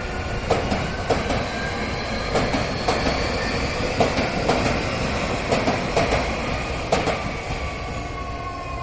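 Keio Inokashira Line 1000 series commuter train passing over a level crossing, its wheels clacking over the rail joints in pairs of knocks. A faint whine drops in pitch near the end as the train moves away.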